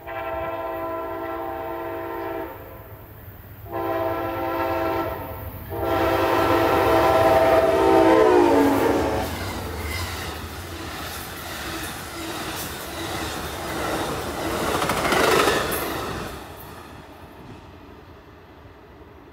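Amtrak passenger train sounding its multi-tone locomotive horn in three long blasts as it approaches a grade crossing. The last blast drops in pitch as the locomotive passes. The cars then rumble and clatter past on the rails, loudest about fifteen seconds in, and fade as the train moves away.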